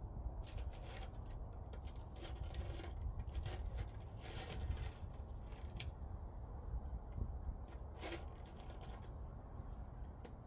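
Scattered light clicks and scrapes of parts being handled and fitted, with a sharper click about eight seconds in, over a low steady rumble.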